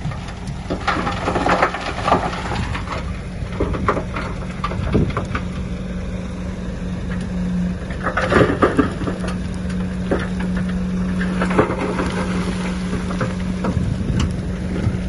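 Komatsu D53P crawler bulldozer's diesel engine running steadily under load, with irregular crunching and clattering of soil and stone being pushed.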